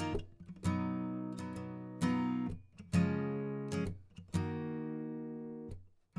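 Background music: an acoustic guitar strumming chords, each strum left to ring and fade before the next.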